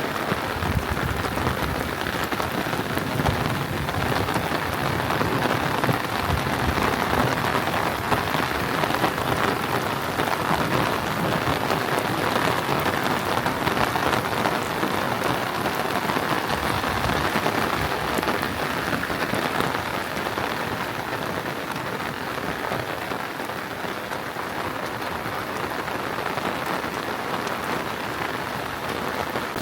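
Steady rain falling, an even continuous patter with no letup.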